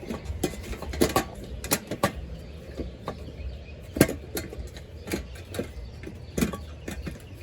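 Irregular clicks and knocks of a no-tool raised garden bed being assembled by hand, its connector pieces sliding into the panel slots and being slid back to lock; the sharpest knock comes about four seconds in.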